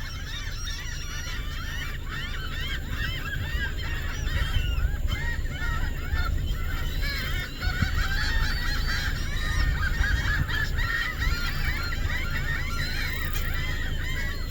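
A large flock of geese calling, many short honks overlapping into a continuous clamour that grows louder about four seconds in, over a low steady rumble.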